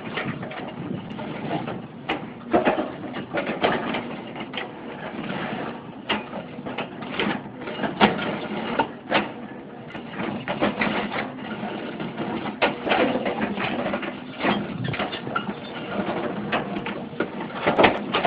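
Excavator-mounted hydraulic concrete pulverizer crushing concrete: irregular sharp cracks and snaps over the steady running of the excavator's engine.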